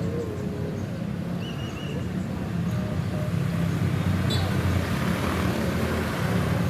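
Steady low outdoor rumble of road traffic, growing slightly louder after about three seconds, with a brief faint high chirp and a short squeak over it.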